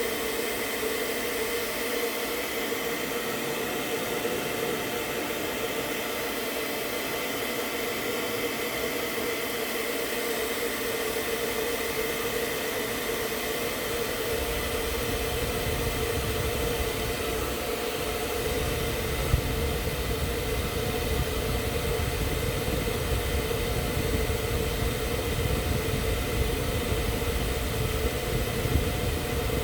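Hair dryer running steadily on high, its fan hiss carrying a steady hum, used to blow poured epoxy resin into wave shapes. A deeper rumble joins about halfway through.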